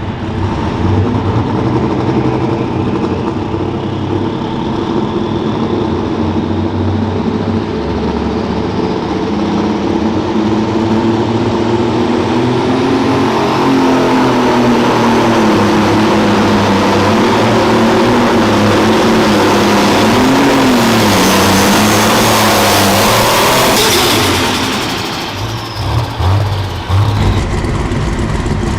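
Light limited super stock pulling tractor's engine running hard under load, its pitch wavering, getting louder about halfway through, then easing off near the end to a lower rumble.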